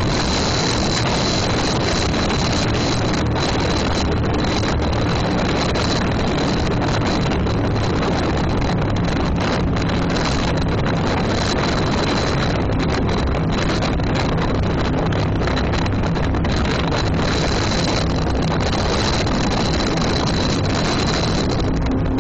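Motorboat running steadily underway, with wind buffeting the microphone.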